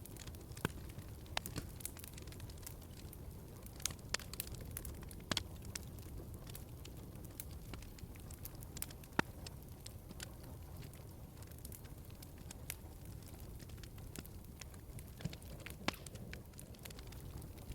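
Wood fire crackling in a fireplace: irregular sharp pops and snaps, a few a second, over a low steady rumble, with the loudest pop about nine seconds in.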